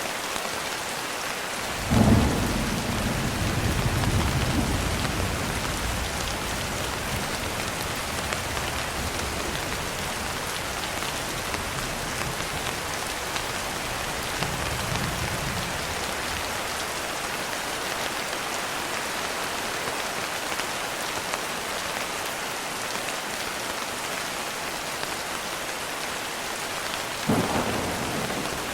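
Steady rain falling, with thunder: a sharp clap about two seconds in that rolls on as a low rumble for several seconds, a fainter rumble midway, and another clap near the end.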